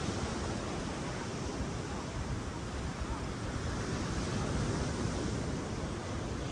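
Ocean surf washing up on a sandy beach: a steady rush of waves that swells a little midway, with some wind on the microphone.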